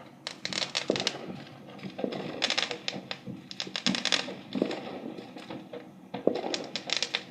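Fireworks popping and crackling in several quick clusters of sharp cracks, a few seconds apart.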